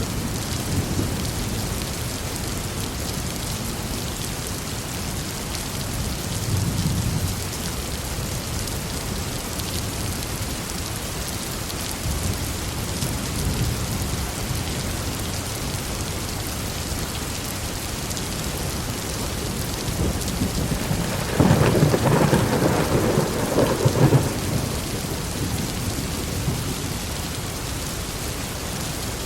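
Heavy rain falling steadily, with distant thunder rumbling low now and then. About two-thirds of the way through, a louder peal of thunder rolls for a few seconds.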